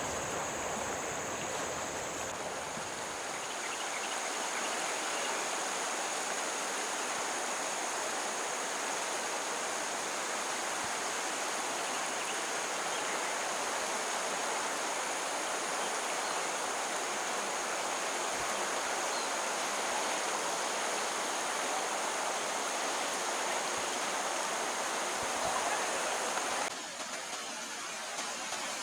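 Stream water running with a steady rush. Shortly before the end the sound drops abruptly and turns thinner.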